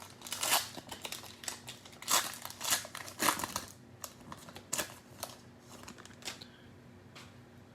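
Plastic wrapper of a trading-card cello pack crinkling as it is opened and handled, in irregular rustles that die away about six seconds in.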